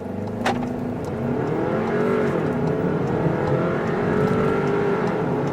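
Skoda Octavia Mk3 engine accelerating hard from a standstill. The engine note rises, drops for a gear change about two seconds in, then climbs again. There is a sharp click about half a second in.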